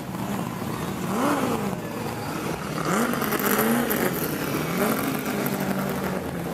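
Racing touring car engine on the grid, revved up and down several times, its pitch rising and falling over a steady hiss.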